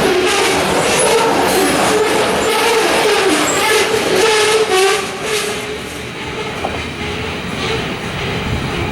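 Freight train rolling past close by, wheels clacking over rail joints, with a loud wavering tone over it that fades out about five seconds in and leaves the quieter rumble of the cars.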